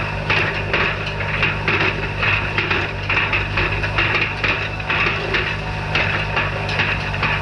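Tractor engine running steadily while the hay rake clatters, a repeated knocking about twice a second.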